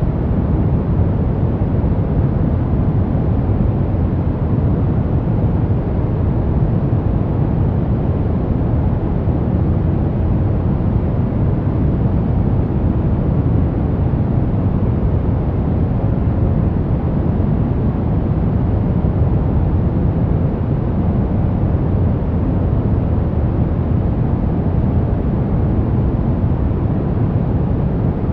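Steady noise for sleep, sold as white noise but weighted toward the low end: an unbroken deep rush with no changes, clicks or tones.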